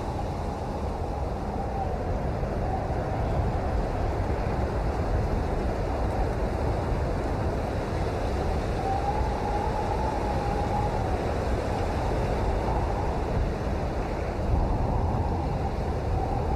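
Steady rainfall, a dense even hiss with no breaks.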